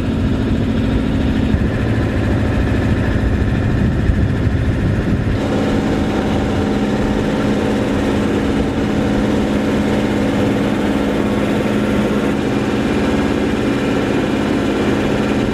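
Sailboat's engine running steadily while motoring under power, a constant low hum. The sound changes slightly about five seconds in.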